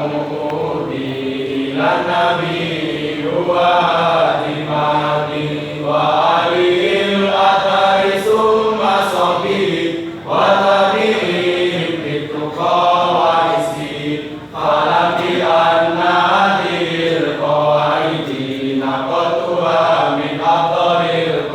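A group of voices chanting in unison in drawn-out, melodic phrases of a couple of seconds each, over a steady low held note, with brief breaks between some phrases.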